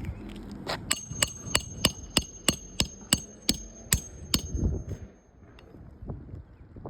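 A hammer driving roofing nails into a shingle repair: about a dozen quick strikes, roughly three a second, each with a ringing metallic ping, then stopping about four and a half seconds in.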